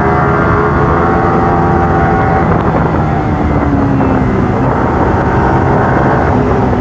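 Motorcycle engine running steadily while riding, mixed with wind rush on the microphone; one engine tone eases down in pitch about halfway through.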